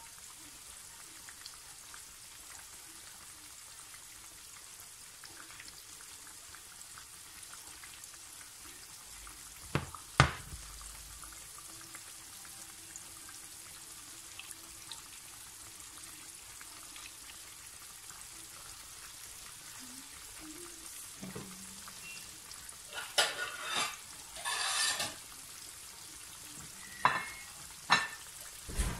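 Flour-breaded chicken pieces deep-frying in a pan of hot oil: a steady sizzling hiss. A few sharp pops break through, the loudest about ten seconds in and several more near the end.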